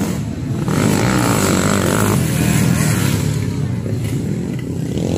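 Motocross dirt bike engines running and revving, getting louder about a second in.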